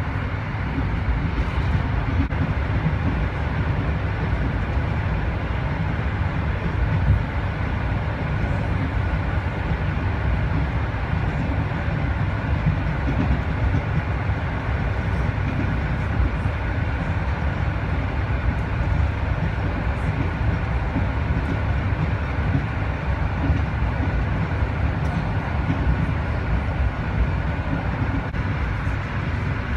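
Inside a moving passenger train: the steady low rumble of the wheels running on the rails, with a faint steady high whine over it.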